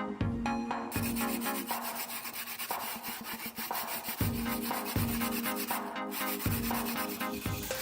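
Rapid abrasive sanding strokes start about a second in, over electronic background music with a steady beat.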